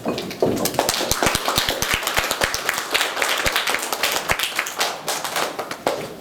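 Audience applauding, dense hand claps that start about half a second in and die away near the end.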